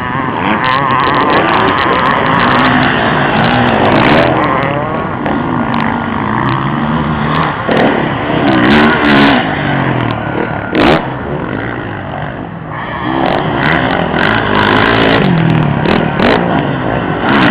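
Several motocross bikes racing, their engines revving up and down with many overlapping rising and falling pitches. The engine noise dips briefly about twelve seconds in, then builds again.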